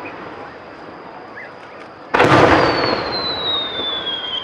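Aerial fireworks shells bursting. The echo of one bang dies away, then about two seconds in another loud bang goes off, followed by a long high whistle that falls slowly in pitch.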